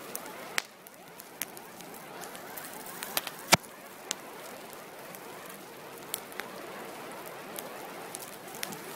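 Fire burning with a steady hiss and scattered sharp pops and crackles, the loudest about three and a half seconds in.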